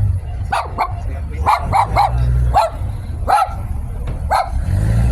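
A dog barking repeatedly, about eight short sharp barks, over the low rumble of a car engine running.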